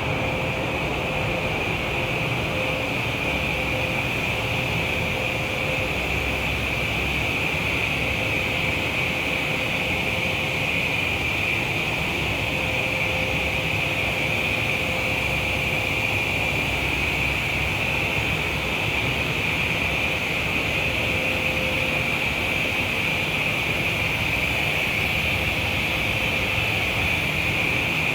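Steady, unchanging industrial machinery noise with a strong high hiss, and a faint tone that comes and goes several times.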